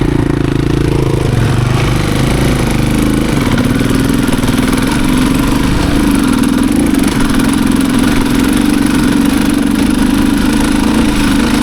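Off-road motorcycle engine running steadily, its pitch wavering up and down in the first few seconds before settling.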